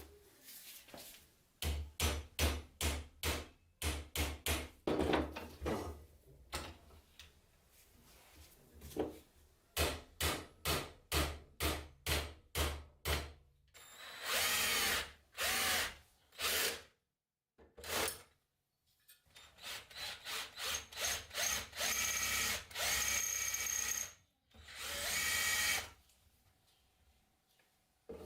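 A power tool worked in short repeated bursts, about three a second, then run in longer stretches of a few seconds with a steady whine.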